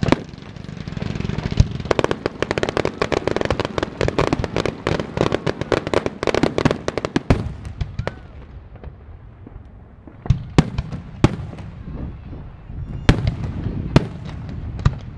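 Aerial fireworks finale: a dense barrage of rapid bangs and crackling for several seconds, then a few separate booms spaced a second or two apart.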